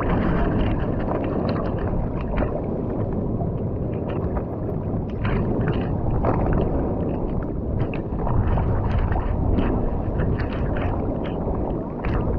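Muffled sea-water noise: a steady low rumbling wash with many scattered clicks and crackles.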